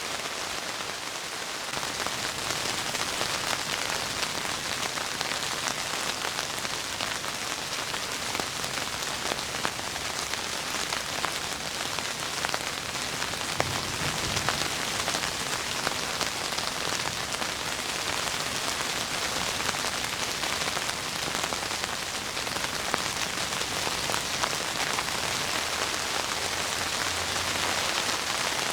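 Heavy rain falling steadily: a dense, even hiss with many separate drop hits scattered through it.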